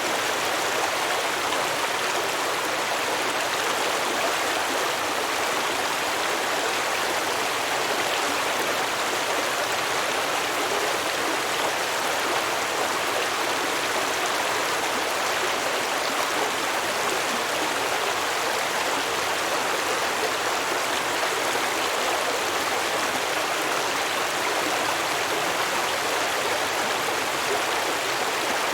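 A small stream running over rocks, with a steady rushing flow that does not change.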